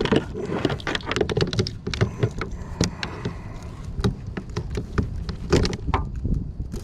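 Irregular, rapid clicks and taps, no steady rhythm, over a low rumble of wind on the microphone.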